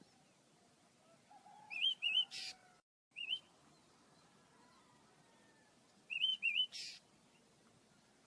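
Small pet birds chirping in two bursts of short, looping high chirps, one about two seconds in and another about six seconds in, each ending with a short harsh rasp.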